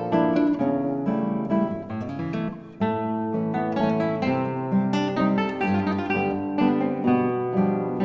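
Three classical guitars playing together, plucked notes in overlapping lines, with a short quieter moment about two and a half seconds in before the playing picks up again.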